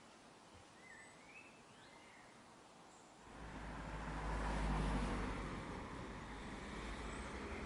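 A bird gives a short chirp over quiet outdoor background. About three seconds in, a rushing noise with a deep rumble swells up, is loudest a couple of seconds later and stays up.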